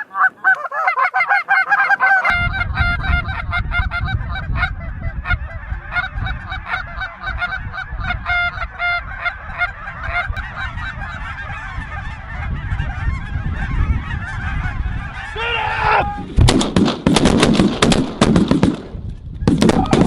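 A large flock of geese calling, many overlapping honks, over wind rumbling on the microphone. Near the end comes a rapid run of loud, sharp shotgun blasts.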